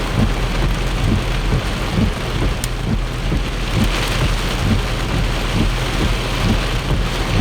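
Torrential thunderstorm rain pouring down steadily, with a continuous low rumble underneath.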